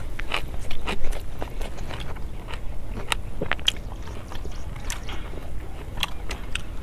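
Close-miked chewing and biting of pork curry and vegetables, heard as many short, sharp, irregular clicks and smacks over a steady low rumble.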